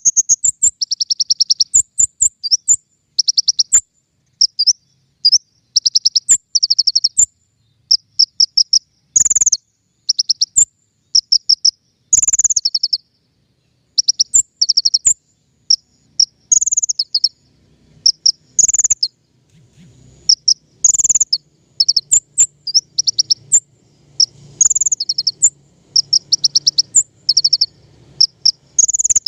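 Songbird called king konin singing: short, rapid, high-pitched trills and sharp chirps repeated in quick phrases with only brief gaps, as used to tutor or lure caged birds.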